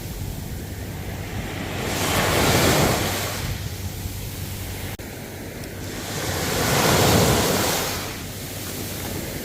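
Ocean waves breaking and washing ashore, the surf swelling twice, about four to five seconds apart.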